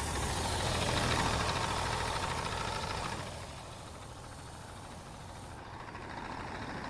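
Sinotruk HOWO 371 dump truck's diesel engine running, the sound easing off about three seconds in and building again near the end.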